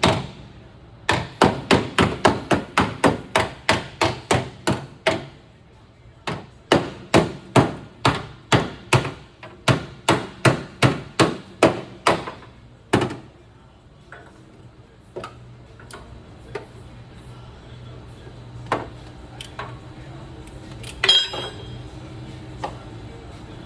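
Hammer blows on the sheet-metal body of a Subaru Crosstrek, knocking out a dent: two runs of quick, even strikes at about three a second, then a few scattered knocks and one ringing metallic hit near the end.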